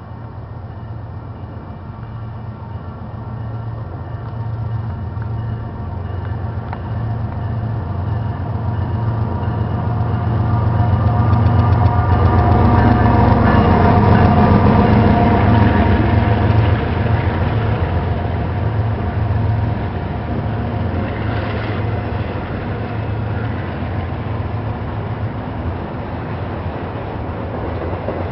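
Double-stack intermodal freight train approaching and passing close by: the drone of its diesel locomotives grows louder to a peak a little past the middle, then the container cars keep rumbling past steadily.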